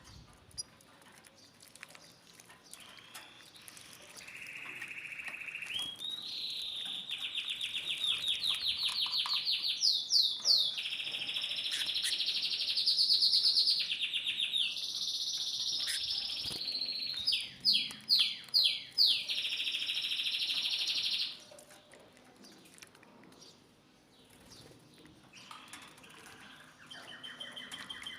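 Domestic canary singing a long song of rapid rolling trills and held, fast-pulsed notes. The song stops abruptly about 21 seconds in, and a new phrase begins near the end.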